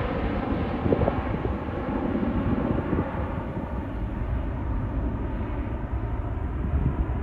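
Jet engine noise from an Airbus A350-900 departing: its Rolls-Royce Trent XWB turbofans give a steady, deep rumble.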